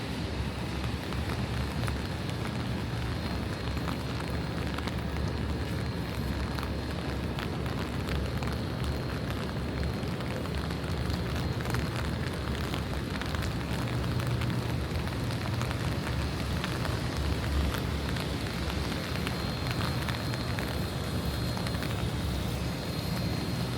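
Steady rain falling on wet pavement, an even hiss scattered with small drop ticks, over a constant low city rumble.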